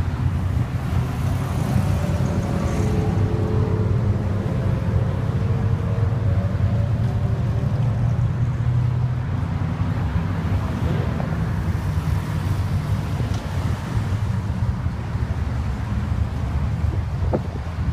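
Steady low rumble of car engines cruising past, with wind buffeting the microphone.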